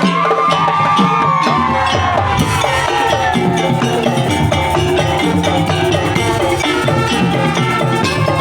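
Madurese daul (tong-tong) ensemble playing: a dense, driving beat of drums and wooden slit drums with a high gliding melody line above it.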